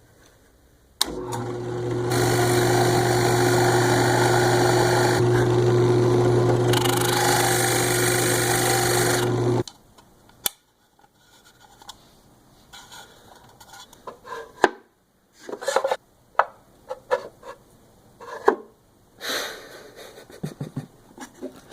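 A woodworking power tool starts about a second in and runs with a steady motor hum and a loud whirring noise, then cuts off abruptly near ten seconds. After that come scattered light knocks and clicks.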